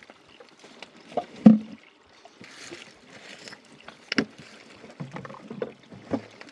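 Irregular knocks and thumps of things being handled, the loudest about one and a half seconds in, with a short hissing rush twice in between.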